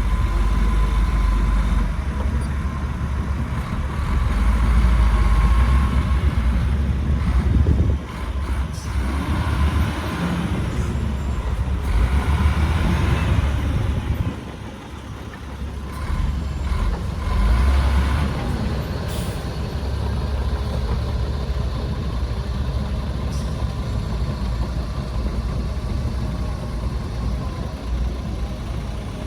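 Heavy diesel engines of earthmoving machinery, a bulldozer and dump trucks, running with a deep continuous rumble. Hissing swells rise over it twice, around a third of the way in and again about halfway through.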